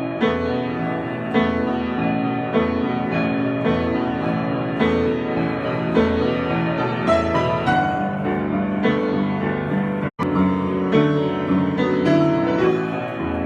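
Piano played as an improvisation: sustained chords, with new notes struck about once a second. The sound drops out for an instant about three quarters of the way through.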